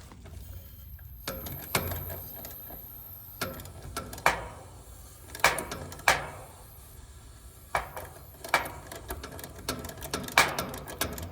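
Metal tool clicks and clinks on an air-conditioning unit's liquid-line service valve as it is worked by hand: about eight sharp knocks spread unevenly over several seconds, with a faint high whine in the first few seconds.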